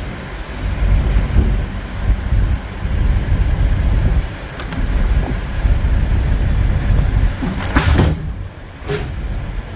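Kenworth W900 semi truck's diesel engine running with a heavy, uneven rumble, broken by two short bursts of hiss about eight and nine seconds in.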